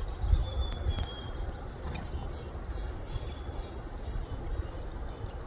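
Small songbirds calling faintly: one thin, high whistled note lasting about a second near the start, then scattered short high chirps, over a low steady rumble.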